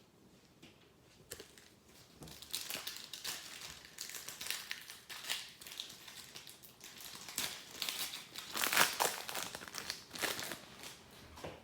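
Crinkling of a foil trading-card pack wrapper being handled. It comes in irregular bursts starting about two seconds in and is loudest a little before the end.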